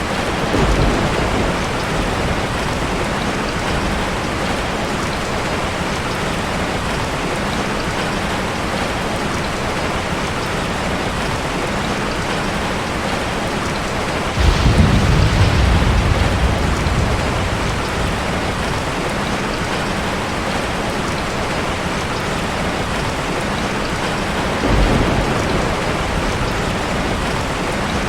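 Steady heavy rain, with low rumbles of thunder: a short one at the start, a louder one that breaks in suddenly about halfway and fades over a few seconds, and a third near the end.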